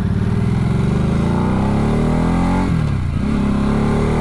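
2022 Harley-Davidson Nightster's 975cc Revolution Max V-twin with an S&S slip-on exhaust, accelerating through the gears: the engine pitch climbs, drops at an upshift about two-thirds of the way in, then climbs again.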